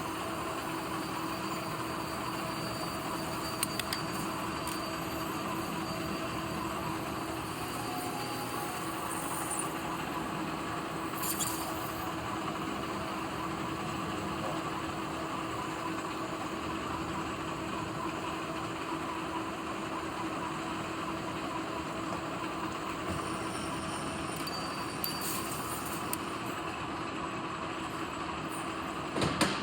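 Metal lathe running steadily with a constant hum. A few brief clicks are heard, the loudest near the end.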